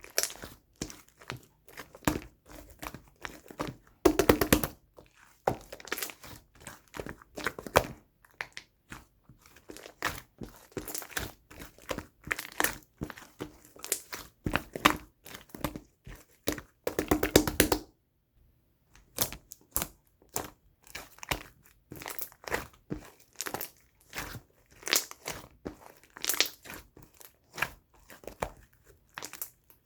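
Pink slime being squished and pressed by hand: a dense, irregular run of small crackling pops and clicks, with a brief pause about two-thirds of the way through.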